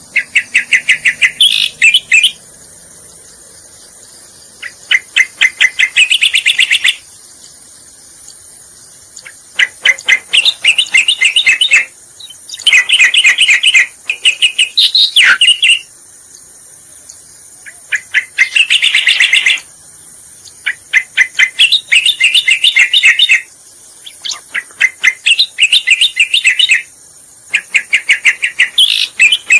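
Cica koreng (cucak koreng) song played as a lure call: phrases of rapid, chattering notes lasting one to two seconds each, repeated with short pauses, over a steady high insect hiss.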